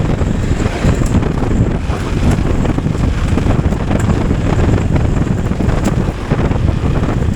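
Off-road motorcycle riding: a steady rumble of wind buffeting the microphone mixed with the engine and tyres, with a few faint ticks scattered through it.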